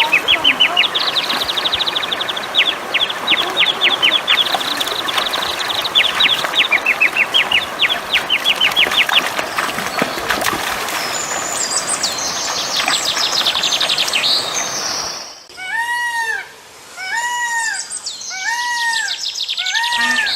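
Birds chirping in quick high trills over a noisy background. About fifteen seconds in, the sound cuts to a single bird giving short arched calls about once a second.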